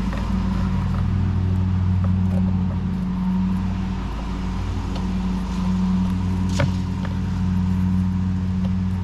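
Steady drone of a lawn mower engine running, with one sharp click about six and a half seconds in.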